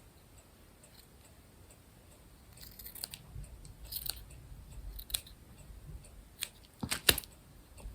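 Scissors snipping, cutting a heart shape out of a fabric scrap: quiet at first, then a scattered run of short snips from about three seconds in, the loudest a quick double snip near the end.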